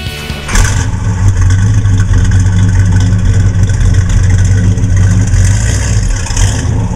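A 1968 Chevelle SS's 454 big-block V8 running loud and steady while the car drives, its pitch holding fairly even. Rock music cuts off about half a second in, just as the engine comes up.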